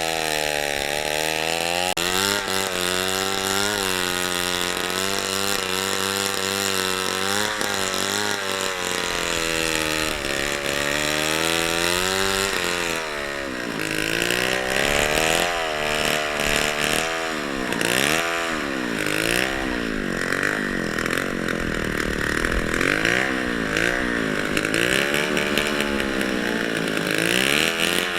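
Two-stroke chainsaw running under load, its engine pitch rising and falling as the revs swing while it cuts wood. From about halfway the revs swing up and down more often and more deeply, with more rasp from the chain.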